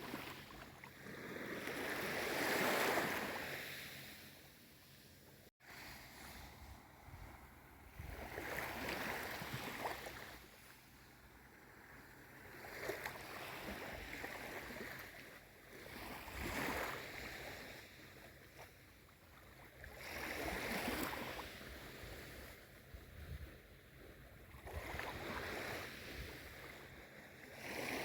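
Small waves of a calm sea lapping ashore, the water noise swelling and ebbing about every four seconds. The sound drops out for an instant about five seconds in.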